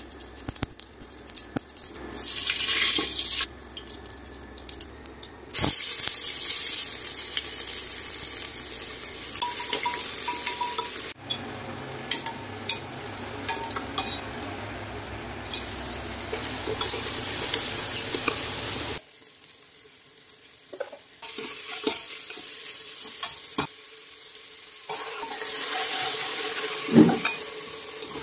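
Seeds, sliced onions and then mushroom masala sizzling in hot oil in an aluminium pressure cooker, with a metal spoon clicking and scraping against the pot as it stirs. The sizzle starts and stops abruptly several times, changing in loudness from stretch to stretch.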